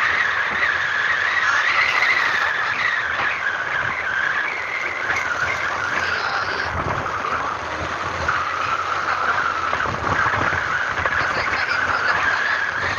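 A vehicle moving along a rough road, with a continuous high squeal that slowly wavers up and down in pitch.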